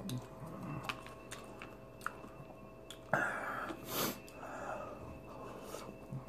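Someone chewing sushi close to the microphone, with small clicks from wooden chopsticks and a few short noisy breaths, the loudest about three to four seconds in.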